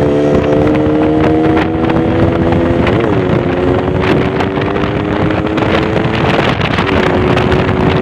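Yamaha RX-King's two-stroke single-cylinder engine pulling under acceleration on a speed test, its pitch climbing, then dipping with a gear change about three seconds in and again near six and a half seconds. Wind rushes over the microphone throughout.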